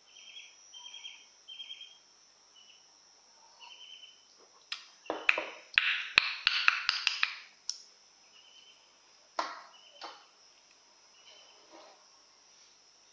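A small bird chirps in short repeated calls over a steady high thin hum. About five seconds in, a few seconds of louder clattering and knocking take over, with a single sharp knock a little later.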